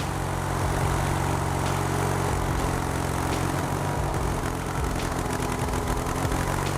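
Engine of a two-way log splitter running at a steady speed.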